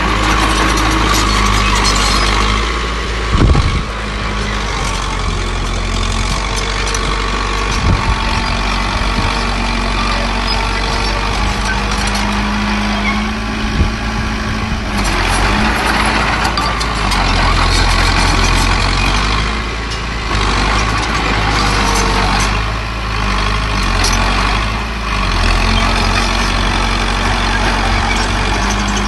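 Diesel engines of a small bulldozer and dump trucks running steadily, with a few short clanks of metal and soil work.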